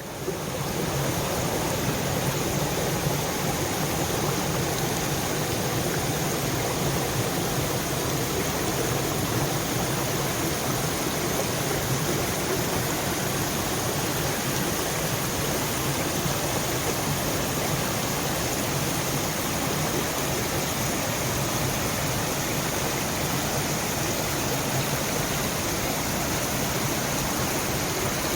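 Steady rush of water from a small waterfall and its river, unchanging throughout.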